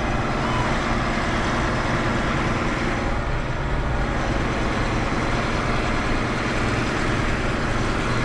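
Heavy-haul truck's diesel engine running steadily with a constant low drone.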